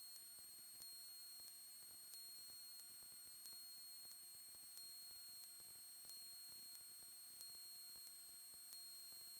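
Near silence on a radio and intercom audio feed: a faint steady high-pitched whine with a soft tick about every two-thirds of a second, electrical interference on the line.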